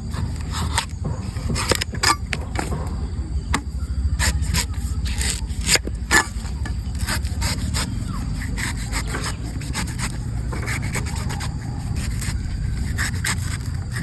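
A blade scraping and cutting into the husk of a green coconut, with many sharp clicks and knocks in the first half and steadier rubbing and scraping later, over a continuous low rumble.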